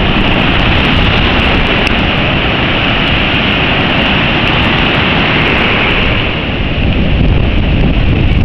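Tropical-storm wind buffeting the microphone with a heavy, continuous rumble, over the hiss of pounding surf.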